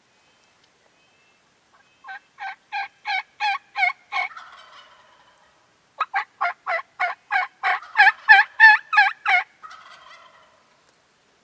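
Turkey yelping: two long series of evenly spaced yelps, about three a second, the first of about seven notes and the second of about thirteen, each series growing louder, with a fainter rough sound trailing after each.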